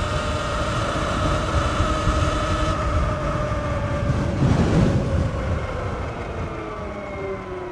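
Sur-Ron X electric dirt bike's motor whining while riding, the whine slowly falling in pitch as the bike slows, over rumbling wind noise on the microphone. A brief louder gust of wind comes about four and a half seconds in.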